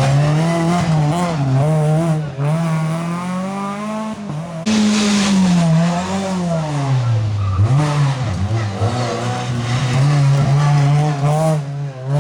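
Rally car engine revving hard, its pitch climbing and dropping again and again with gear changes and lifts. The sound changes abruptly twice, as if cutting from one car to the next.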